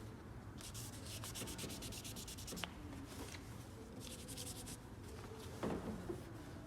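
2000-grit sandpaper scuffing a plastic headlight lens by hand with soapy water, in two spells of quick back-and-forth strokes. This is a light, even scuff of the lens surface to prepare it for a clear coat restore. A light knock comes near the end.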